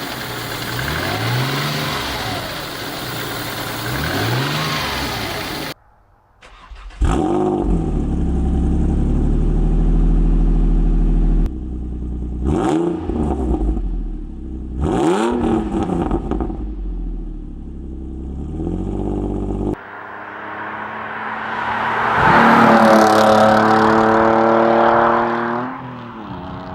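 Ford Duratec 3.0-litre V6 engine being revved, in several spliced clips. First come three quick revs, then the engine idles with two sharp blips, and near the end one long rev climbs and falls back.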